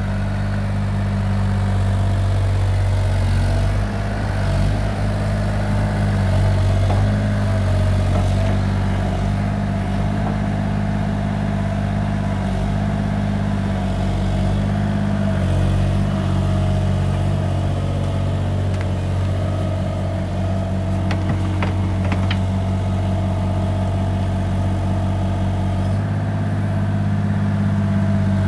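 Excavator's engine running steadily at a constant speed, with a few short metallic clicks about two-thirds of the way through.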